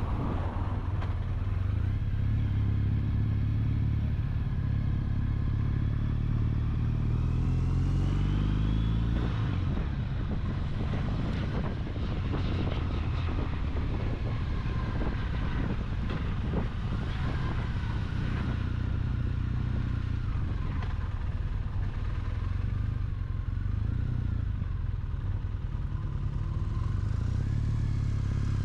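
Triumph motorcycle engine running while under way, with steady wind and road noise. The engine note climbs in pitch about a third of the way in as the bike accelerates, then drops back and runs on steadily.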